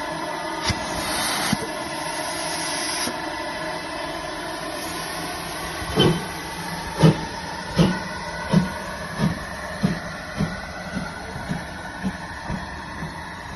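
LMS Ivatt Class 2 2-6-0 steam locomotive, a two-cylinder engine, letting off a hiss of steam and then starting away. Its exhaust beats begin about six seconds in and quicken from about one a second to about two a second as it gathers speed.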